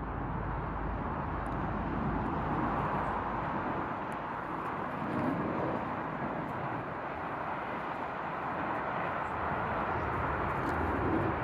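Steady outdoor background noise: an even rushing hiss with no distinct events, keeping the same level throughout.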